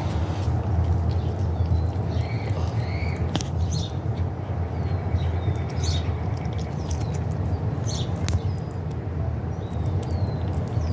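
A cat eating wet food, with scattered sharp clicks of chewing and licking over a steady low hum.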